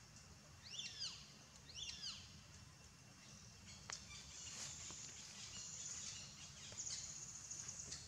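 Two short, high bird calls about a second apart, each a quick rise and fall in pitch. They are followed by a thin, high trilling that carries on in the background over a steady low rumble.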